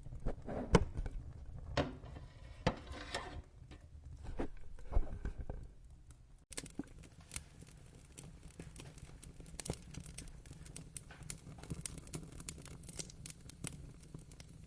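Wood fire crackling, with a handful of loud pops in the first half, then a sudden change partway through to steadier, finer crackling over a low rumble.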